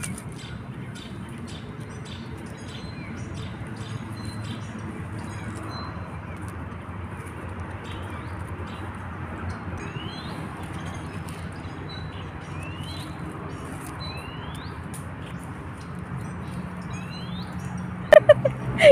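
A bird calling with short rising whistles, several of them a second or two apart from about halfway through, over a steady low hum and faint scattered ticks. A short loud voice breaks in near the end.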